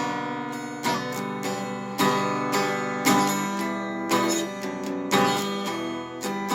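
Acoustic guitar being strummed, with a chord struck about once a second and left to ring.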